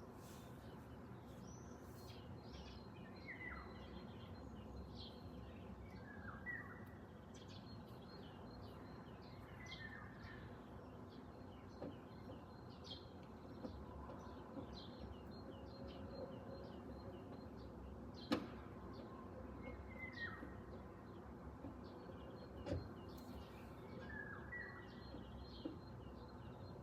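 Songbirds chirping and singing, with one bird repeating a short falling call every few seconds over a steady low background hum. Two sharp clicks stand out, one just past the middle and one a few seconds later.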